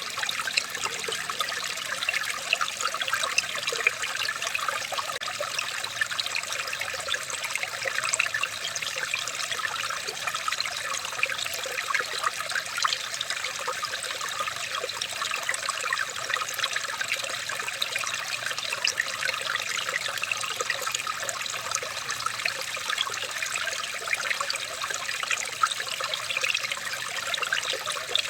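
Running water trickling and babbling steadily, a continuous splashy patter with many small bright droplet sounds.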